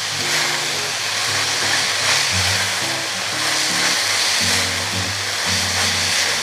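Bean sprouts and shishito peppers sizzling in a hot wok as they are stir-fried and tossed with wooden spatulas, a steady hiss throughout. Light background music with short stepped bass notes plays underneath.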